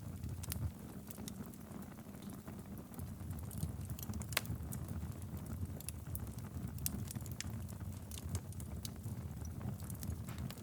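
Wood fire burning in a fireplace: a steady low rumble of flame with irregular sharp crackles and pops, one louder pop about four seconds in.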